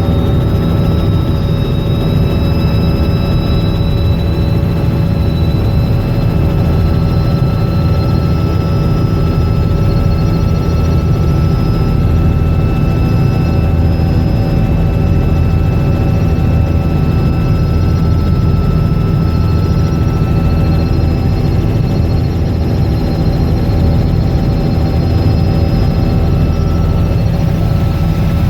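Robinson R66 helicopter in flight: steady low rotor and engine noise with a high turbine whine above it, its pitch drifting slightly.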